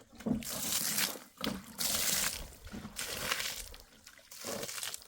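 Water pouring and splashing in about four short bursts.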